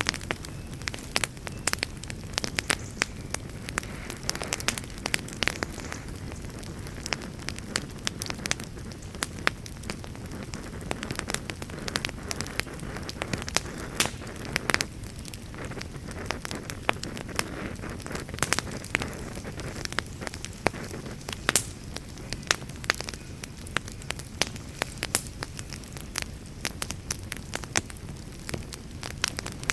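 Wood campfire crackling, with frequent irregular sharp pops over a steady low rush.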